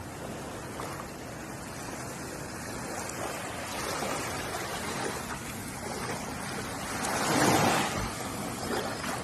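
Ocean waves washing onto the shore, a steady rush that swells as one wave breaks about three-quarters of the way through and then falls back.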